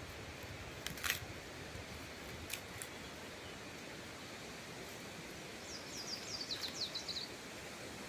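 Faint outdoor forest ambience with a songbird singing one quick run of short high notes that step down in pitch, about six seconds in. A sharp crackle about a second in and a couple of small ticks follow soon after.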